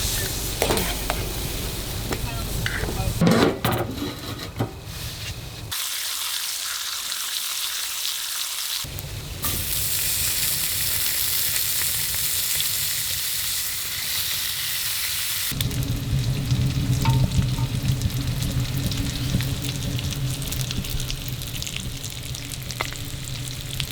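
Food sizzling as it fries in a pan, with a few clicks of a utensil stirring it in the first seconds. The hiss changes abruptly a few times, as if several stretches of frying are cut together.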